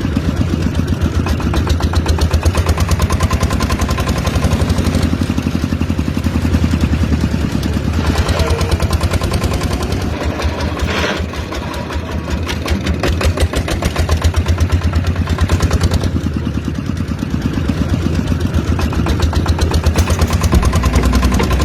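Small motor of a miniature model tractor running steadily, with a rapid, even clattering beat and a low hum.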